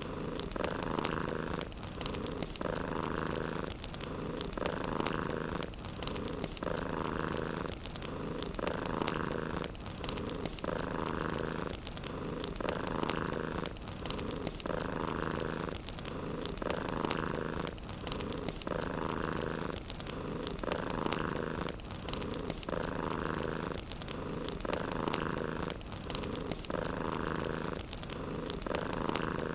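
Domestic cat purring steadily, swelling about once every two seconds with each breath, over the light crackle of a wood fire in a fireplace.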